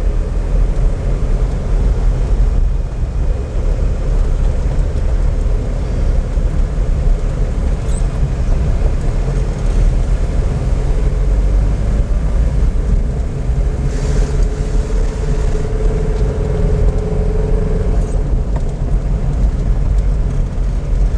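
Car driving, its engine and road noise making a steady low rumble heard from inside the cabin, with a humming tone rising out of it for a few seconds past the middle.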